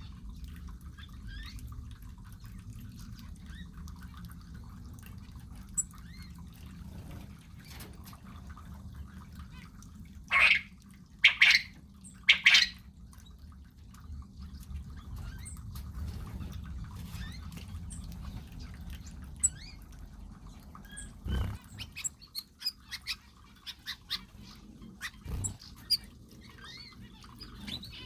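Mixed aviary birds calling and chirping, with many short faint chirps and three loud calls about a second apart around ten seconds in, over a steady low background rumble.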